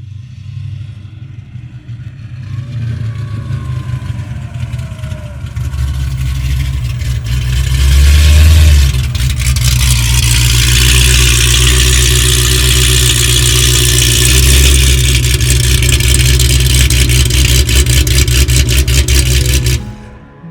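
Dodge Challenger Hellcat's supercharged Hemi V8 under hard throttle, with pitch rising as it builds over the first several seconds. It then runs loud and sustained with a heavy, rough exhaust note before cutting off abruptly near the end.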